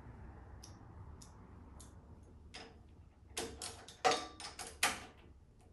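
A few faint ticks, then a quick run of sharp clicks and light knocks about halfway through, as the snowblower's control levers and parts are handled.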